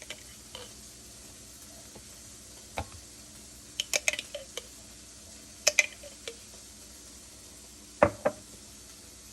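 Scattered light knocks and clinks of kitchenware being handled, in a few short clusters, the sharpest pair near the end, over a faint steady hum.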